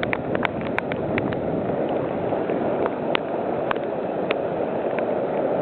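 Rainwater runoff gushing downhill as a steady rush of water, with many sharp little ticks scattered through it.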